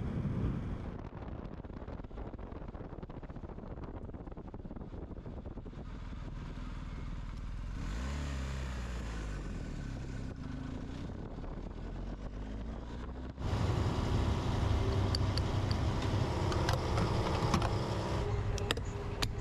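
BMW R 1250 GS motorcycle's boxer-twin engine running under way, with road and wind noise. About eight seconds in, the engine pitch sweeps down and back up. Past the middle the sound turns abruptly louder and steadier, with light ticking.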